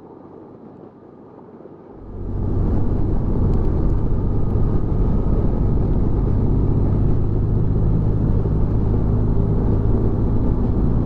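Motorcycle engine running at a steady cruise with wind and road noise. The first two seconds are quieter, then the sound rises sharply to a loud, steady low rumble that holds.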